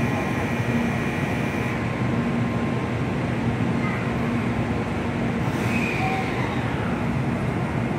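Shinkansen bullet train pulling away from the platform at low speed: steady running noise of wheels on rails, with a low hum held throughout.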